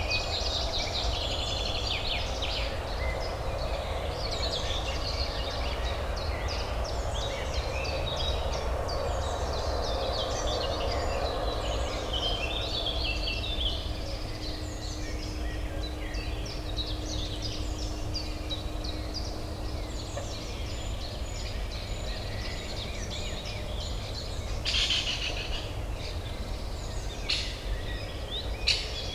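Many small birds chirping and singing together over a steady low urban hum. The chorus thins out about two-thirds of the way through, and a few sharp clicks sound near the end.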